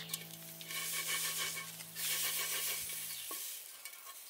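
Chili-flake-coated beef jerky sizzling as it fries in a hot wok, turned with chopsticks; the sizzle swells in two loud spells. Soft background music runs underneath and stops about three seconds in.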